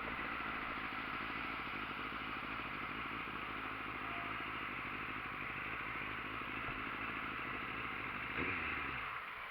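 Motorcycle engine running steadily under way, with rushing wind and road noise; near the end the engine note falls quickly and the sound drops off as the revs come down.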